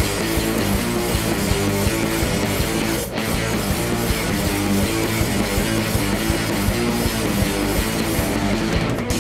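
Live rock band playing an instrumental passage, loud distorted electric guitar over bass and drums, with a brief drop about three seconds in.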